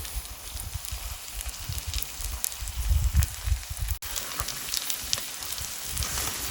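Wood fire crackling in a UNIFLAME firewood grill while steak sizzles over it, with scattered sharp pops over a steady hiss and a low rumbling underneath.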